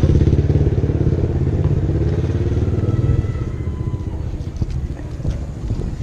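A motor vehicle's engine running with a low, rapid pulsing, loud at first and fading after about three seconds as it moves off.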